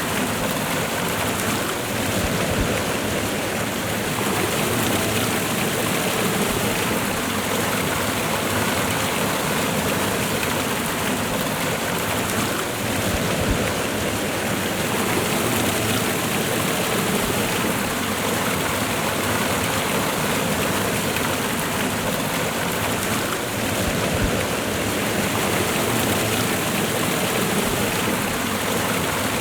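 Waterfall and river water rushing steadily, an even unbroken roar of falling and running water.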